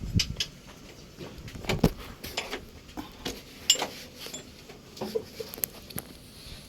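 Irregular light clicks and knocks, a few a second with short pauses, like tools or metal parts being handled. No engine is running.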